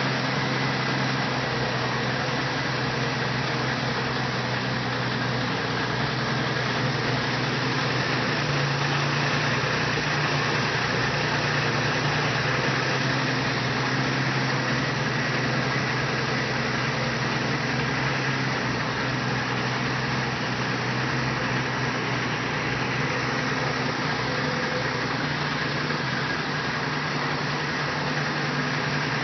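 Twin-turbocharged 2006 Nissan 350Z's built 3.5-litre VQ35DE V6 idling steadily, heard at the open engine bay. This is the freshly rebuilt engine on its first run after being started.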